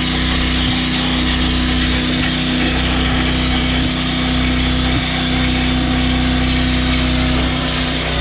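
Pressure washer running steadily with a wet sandblaster attachment, blasting a mix of water and sand onto a steel wheel to strip rust and old paint: a constant motor tone under a loud, even hiss.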